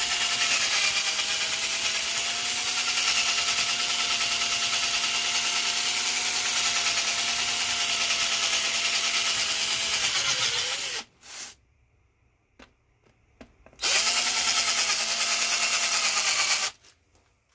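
Electric drill running steadily under load while drilling out a rivet. It runs about ten seconds and winds down, then after a short pause with a few small clicks it runs again for about three seconds and stops sharply.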